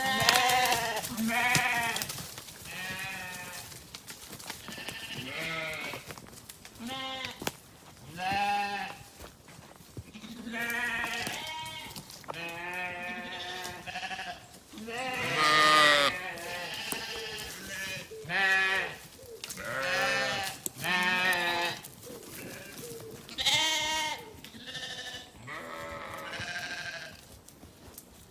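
Sheep bleating over and over, a long series of wavering calls at varied pitch coming every second or two, some overlapping.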